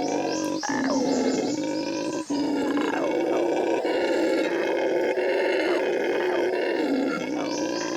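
Howler monkeys roaring territorial calls, several voices overlapping in a continuous, loud chorus of deep, throaty howls.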